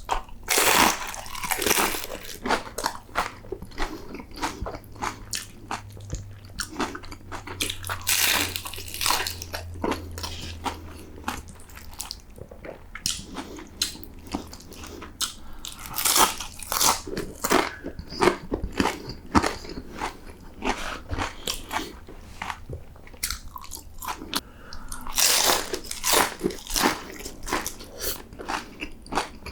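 Crispy fried taquitos bitten and chewed close to the microphone: four loud crunching bites about eight seconds apart, with steady chewing between them.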